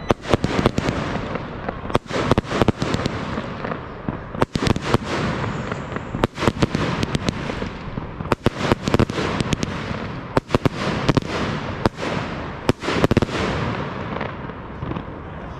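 Fireworks going off in rapid, irregular succession: many sharp bangs, several a second, over a continuous crackling.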